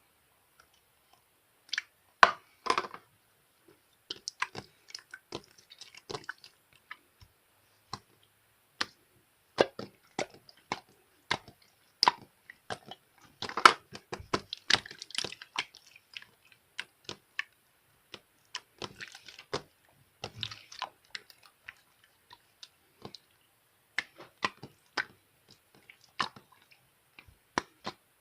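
Slime being squeezed and poked by hand: irregular crackling clicks and small pops in quick clusters, with short silent gaps between handlings.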